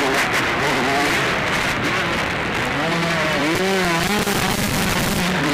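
Motocross bikes on the track, engines revving up and falling back again and again, under a harsh, constant noise on the microphone.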